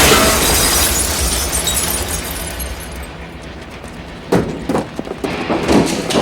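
The tail of an explosion dying away, with debris and glass crackling and falling, followed from about four seconds in by several sharp knocks and impacts.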